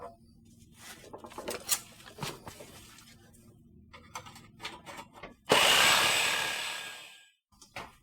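Faint clicks and scrapes of metal parts being handled, then a power cutting tool starts suddenly about five and a half seconds in, runs loudly on the exhaust pipe for about a second and a half and fades away.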